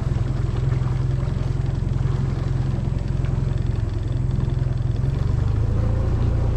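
Small outboard motor running steadily at a constant throttle, pushing a small skiff along with a deep, continuous hum.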